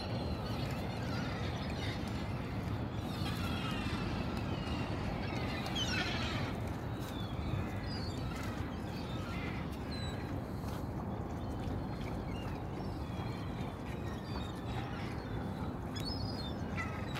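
Small birds chirping on and off, short quick calls, over a steady low background rumble in the open air.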